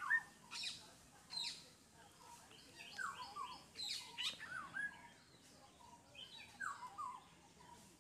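Small birds chirping in several short runs of quick, sweeping notes.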